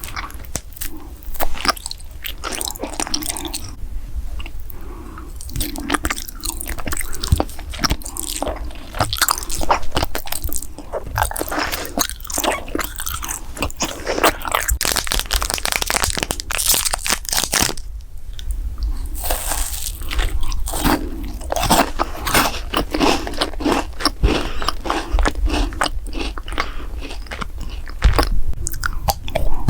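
Close-miked crunchy biting and chewing of food, a dense run of crackling crunches with a brief lull partway through.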